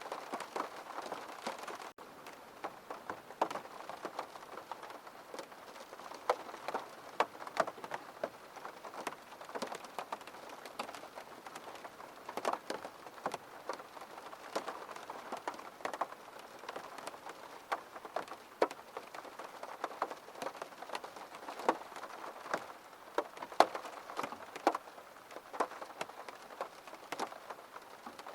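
Rain falling on a window pane: a steady hiss of rain with many separate drops ticking on the glass, a little louder in the first two seconds.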